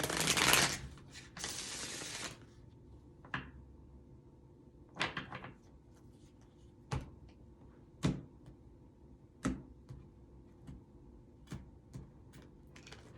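Tarot cards being handled: a short rustling burst of shuffling at the start, then a few sharp light taps and clicks at irregular intervals of a second or more.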